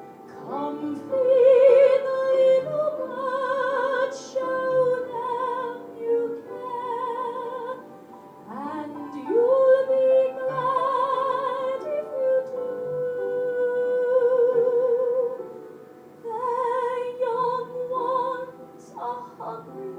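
Solo female voice singing a slow ballad in long, held phrases with wide vibrato, pausing for breath about 8 and 16 seconds in.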